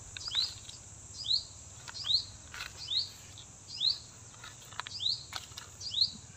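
A bird repeating a short, high, falling chirp about once a second, over a steady high hiss, with a few soft clicks from hands handling a plastic polybag and soil.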